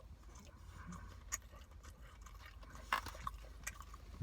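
A person chewing a mouthful of chicken and rice, quiet, with a few sharp, wet mouth clicks and smacks, the most of them about three seconds in, over a low steady hum.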